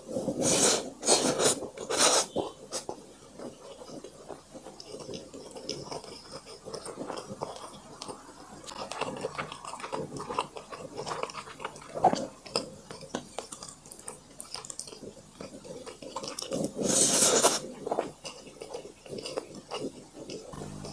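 Close-miked chewing and eating, with a few louder bursts of noise in the first couple of seconds and again about three quarters of the way through.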